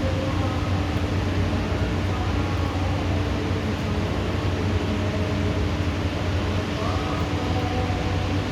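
Steady rushing noise of heavy rain, with a low steady hum underneath and a few faint wavering tones.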